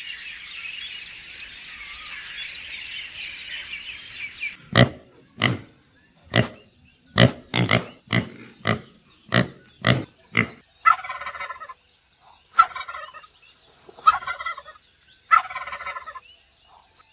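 Farm poultry calling. First a dense, high chatter of many birds, then a run of about ten short, sharp calls roughly every half second or so, followed by several longer rattling calls.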